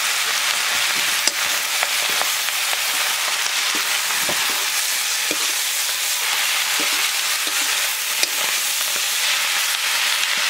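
Chopped leafy greens frying in a metal wok over a wood fire: a steady sizzling hiss, with a ladle stirring them and a few sharp clicks here and there.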